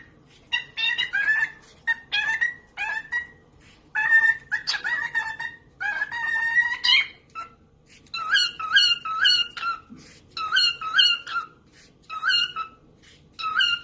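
A parrot calling: a run of bending, pitched calls and squawks, then from about eight seconds in a rhythmic string of short repeated calls in quick succession.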